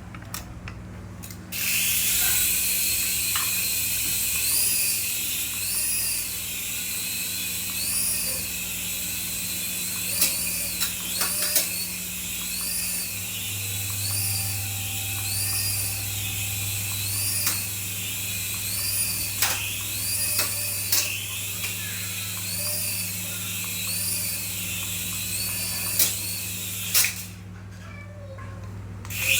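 Small electric motor of a remote-control toy whining steadily, with a high warbling tone that rises and falls a bit more than once a second, a low hum and scattered light clicks. It starts about a second and a half in and cuts out briefly near the end.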